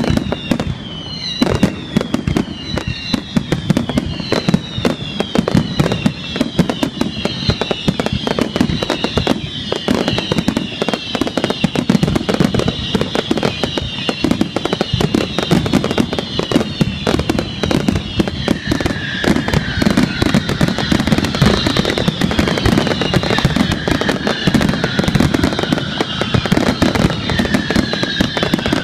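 Fireworks display in full barrage: dense, rapid bangs and crackling, with many overlapping whistling fireworks, each whistle falling in pitch. About two-thirds of the way in, a second set of lower whistles joins.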